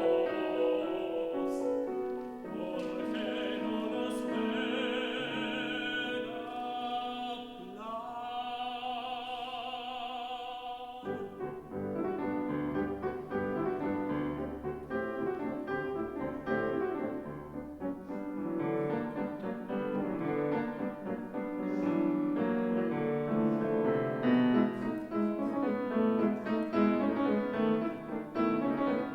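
Operatic tenor singing with wide vibrato over piano accompaniment, ending his phrase on a long held note about eleven seconds in. The piano then carries on alone with busy, rapid figures.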